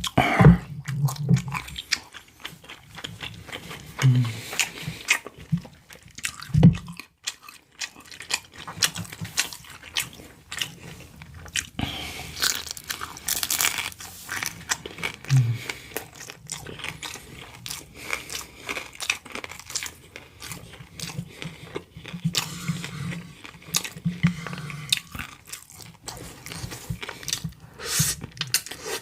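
Close-miked eating sounds: a person biting and chewing food, with frequent sharp, crunchy mouth clicks.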